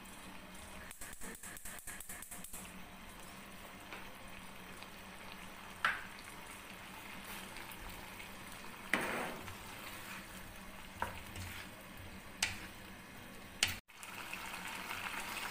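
Chicken and vegetables in sauce sizzling and bubbling gently in a non-stick wok over high flame, the sauce being cooked down. A wooden spatula stirs through it, with a few short knocks against the pan.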